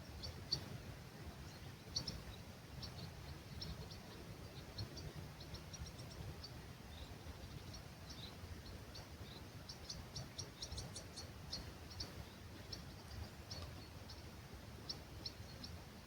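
Faint dawn birdsong in an olive grove: many short, high chirps from small birds, scattered throughout and coming thickest a little after halfway, over a low steady rumble.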